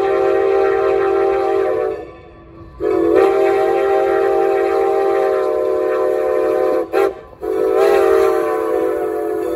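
Steam whistle of Strasburg Rail Road No. 90, a 2-10-0 Decapod steam locomotive, blowing in long steady blasts: one blast ends about two seconds in, a second long blast follows, then a short toot and another long blast. The long-long-short-long pattern is the grade-crossing signal.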